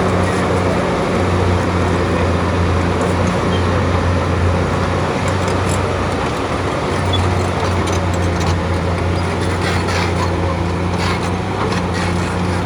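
Bulldozer's diesel engine running steadily under load, with a few metallic clanks around the middle and near the end.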